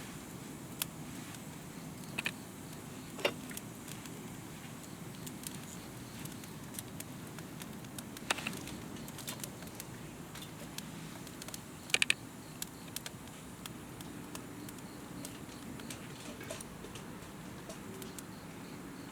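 Wood campfire burning in a fire pit, with a steady low rush and scattered sharp crackles and pops; a quick triple pop about two-thirds of the way through is the loudest.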